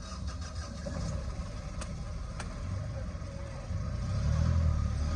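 A motor vehicle's engine running close by, its low rumble growing louder near the end, over outdoor street noise with a few sharp clicks.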